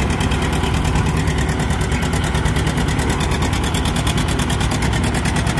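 1953 John Deere R two-cylinder diesel tractor engine running steadily under load, pulling the weight sled, with an even firing beat.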